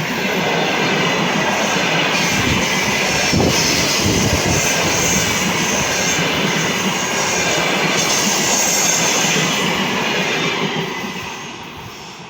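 Passenger train hauled by an EP1 electric locomotive passing close by, with a loud, steady rush of wheels on rails. The sound fades away over the last second or two as the train moves off.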